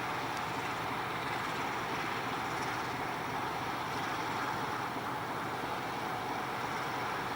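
Freight train running, a steady, even rushing noise with no distinct engine tone or knocks.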